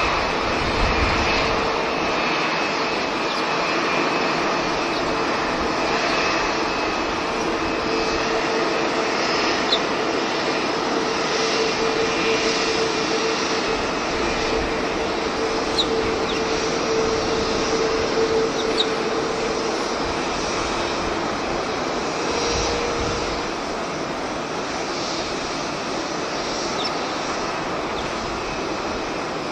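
Jet airliner engines running, a steady rushing noise with a held tone that fades out about two-thirds of the way through.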